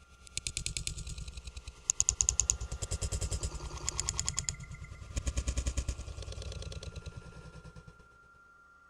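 Rapid mechanical rattling clatter at about a dozen knocks a second. It comes in waves that swell and fade, loudest about two seconds in and again just past five seconds, and dies away near the end over a thin steady whine.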